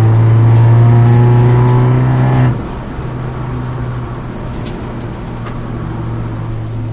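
Alfa Romeo Twin Spark four-cylinder engine heard from inside the race car's cabin, pulling under load with a steady note. About two and a half seconds in the note cuts off sharply as the throttle is lifted, leaving a quieter engine hum with tyre and road noise.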